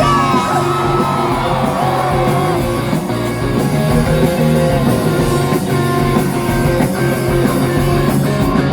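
Rock band playing live: electric guitars, bass and drums in an instrumental passage, with a gliding sung or bent note in the first second or two.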